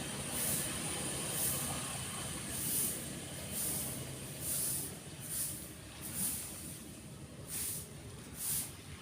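A passing road vehicle's engine rumbles and fades away over the first half, over a steady wash of breaking waves. A short, high chirp repeats about once a second.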